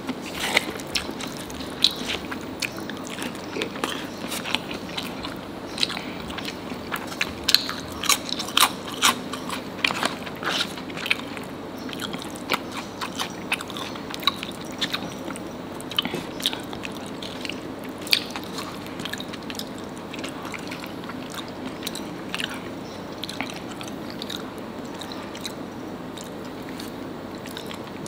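A person chewing nasi padang close to the microphone, with crunchy bites and wet mouth clicks, busiest in the first half.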